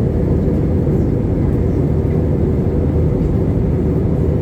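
Jet airliner during takeoff: a loud, steady low rumble of engines and rushing air.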